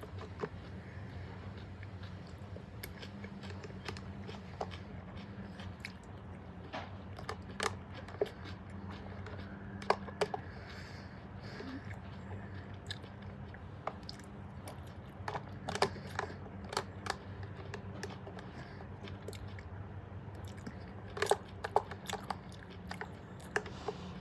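Close-miked eating: biting and chewing with irregular sharp crunches, over a low steady hum.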